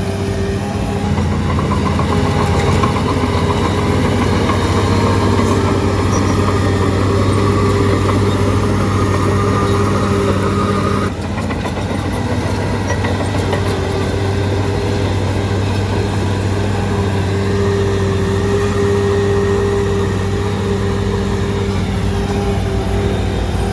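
Shantui DH17C3 bulldozer's diesel engine running steadily under work, with a brief dip in level about eleven seconds in.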